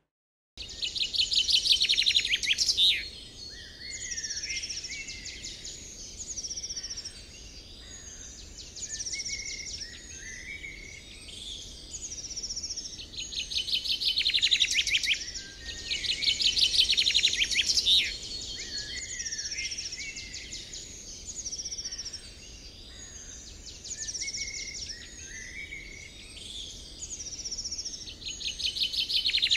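Several birds singing and calling, with a fast trill that comes back every few seconds among scattered high chirps.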